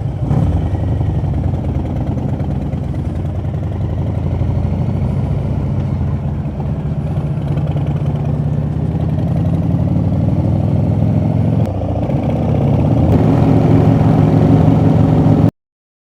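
Harley-Davidson V-twin motorcycle engine running steadily while riding, growing louder about three-quarters of the way through, then cutting off abruptly near the end.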